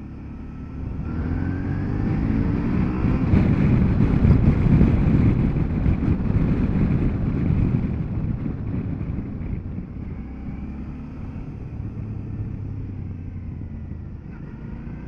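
Motorcycle engine pulling away and revving up through the gears, with wind rush. It is loudest a few seconds in, then settles to a steadier cruise.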